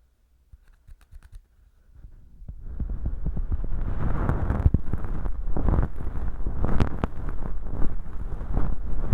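Feather-tipped bonten earpick brushing and rustling inside a mock ear canal packed with dry, flaky earwax, making a dense crackly scratching. It starts about two and a half seconds in, after a near-silent pause with a few faint clicks.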